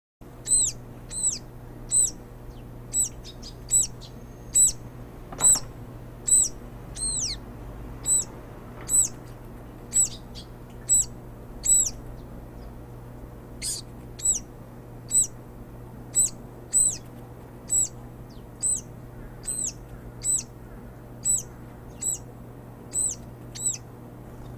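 A small bird repeating a short, high, slightly falling call over and over, about once every three-quarters of a second.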